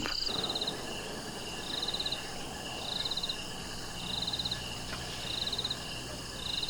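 A small animal calling: short, high, rapidly pulsed chirps repeating about every second and a quarter, over steady outdoor background noise.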